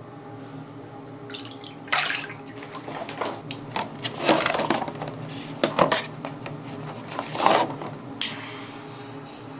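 Irregular clatter and knocks of dishes or other hard household objects, mixed with splashing water at a sink. It starts about a second in and dies away near the end, over a steady low hum of room tone.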